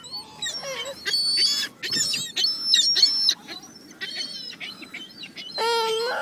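A crowd of hungry waterside birds calling over each other while being fed, with many short, high, squealing calls that rise and fall in pitch. A longer, lower wail starts near the end.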